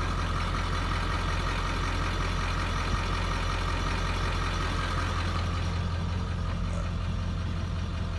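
Ford 7.3 L Powerstroke turbo-diesel V8 idling steadily, with a faint tick about three seconds in.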